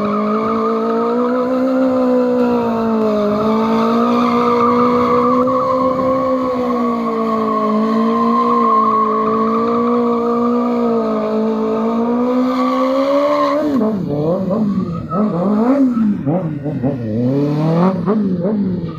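Car engine held at high, steady revs for about fourteen seconds, then revved up and down in quick throttle blips near the end.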